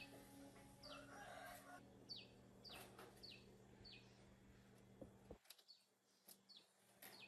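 Faint bird chirps: a string of short, quick downward-sliding notes, roughly one or two a second, over a steady low hum that cuts off about five seconds in, with a few faint clicks.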